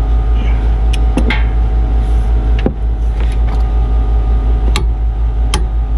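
Several sharp, separate metallic clicks from a wrench torquing the rear brake caliper bracket bolts, over a loud steady low rumble.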